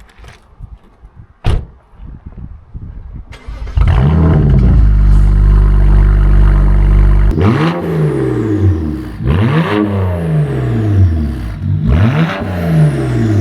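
BMW E93 335i turbocharged straight-six, running through catless downpipes and a muffler delete, starts about four seconds in after a few quiet clicks. It settles to a loud idle, then is revved three times, each rev rising and dropping back.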